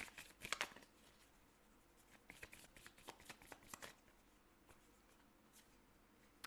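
Tarot cards being shuffled and handled: faint, soft clicks and riffles of the deck, in short spells near the start and again from about two to four seconds in.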